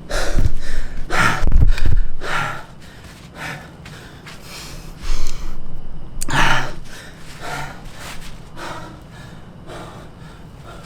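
A man breathing hard after exertion, with loud gasping breaths about once a second. A few low thuds sound in the first two seconds.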